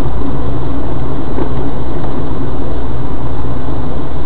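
Steady, loud road and engine noise of a moving car heard from inside the cabin through a dashcam's microphone.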